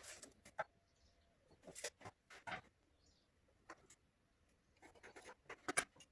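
Scattered light knocks and clicks of wood pieces and tools being handled on a workbench, the loudest a quick cluster near the end.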